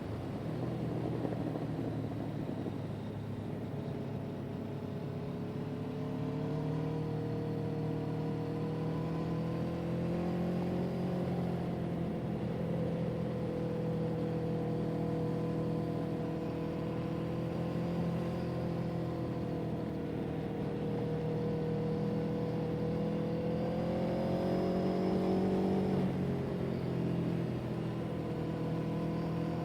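An engine running steadily, its pitch slowly rising and falling, dropping suddenly about 26 seconds in and then climbing again.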